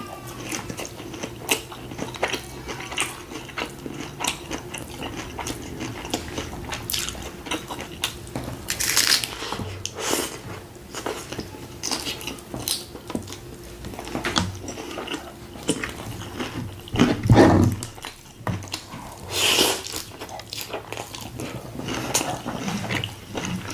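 Close-up eating sounds of a person biting and chewing a loaded taco: irregular crunches and wet mouth sounds, with a few louder bites about 9, 17 and 19 seconds in.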